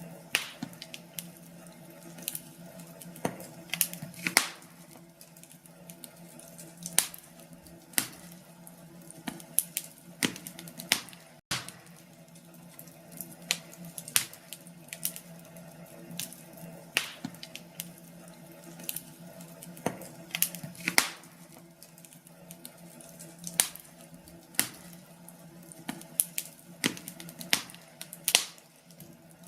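Wood fire in a fireplace crackling: irregular sharp pops and snaps, several a second at times, over a low steady hiss with a faint hum underneath.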